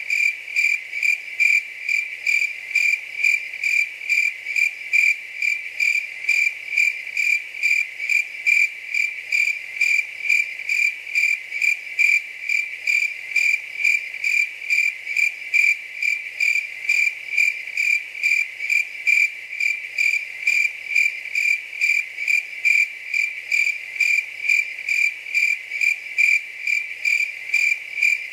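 A cricket chirping steadily, a high, pure-toned chirp repeated at an even pace of about two a second.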